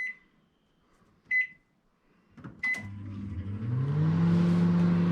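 Microwave oven keypad beeping twice as the time is set, then the oven starting: a low hum that rises in pitch for about a second and settles into a steady drone.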